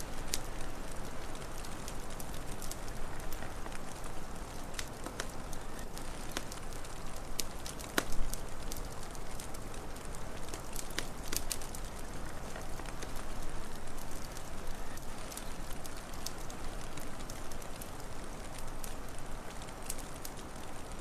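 Wood fire crackling: irregular sharp pops and snaps over a steady low rushing noise, with the loudest pop about eight seconds in.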